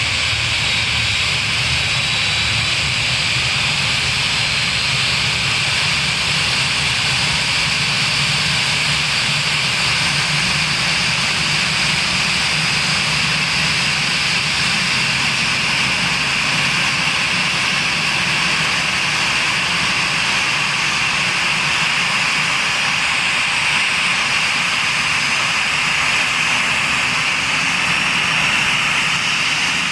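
Newly installed turbofan jet engine on an Airbus airliner running steadily during a post-installation ground run: a loud, even rushing noise with a high whine.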